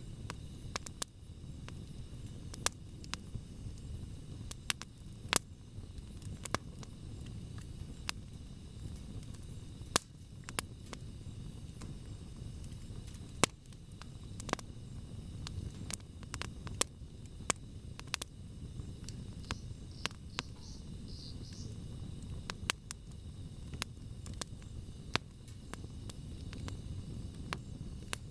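Wood campfire crackling: irregular sharp pops and snaps, some much louder than others, over a steady low rumble of burning.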